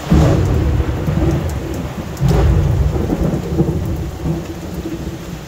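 Thunder rumbling over heavy rain: a sudden loud rumble at the start that swells again about two seconds in, then slowly fades under the steady hiss of the downpour.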